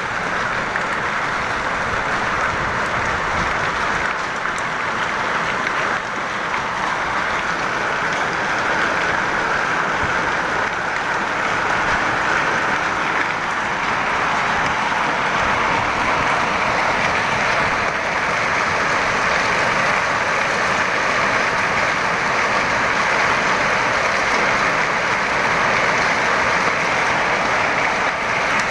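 Hailstorm: hail and heavy rain pelting down in a dense, steady patter, a little heavier in the second half.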